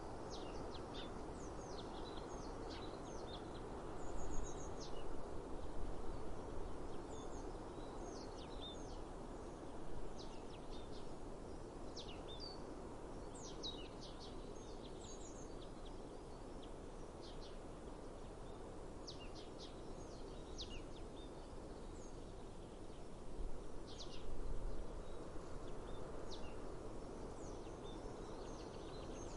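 Small birds chirping repeatedly in short, quick high notes over a steady outdoor rush of breeze. The rush swells louder twice, about four seconds in and again near the end.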